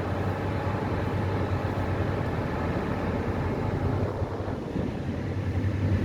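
Ferry engine running with a steady low hum, under an even rushing noise.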